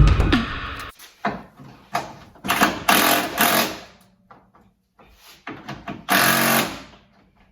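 Music with a drum beat fades out in the first second. Then a small power tool runs in several short bursts, each half a second to a second long, the longest around the middle and another near the end.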